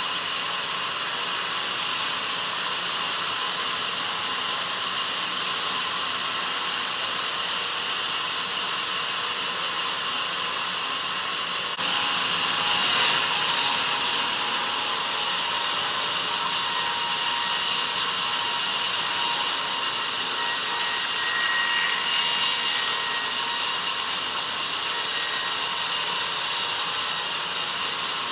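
Sawmill band saw cutting through a log with a steady rasping hiss. About twelve seconds in it gets louder and brighter and stays that way.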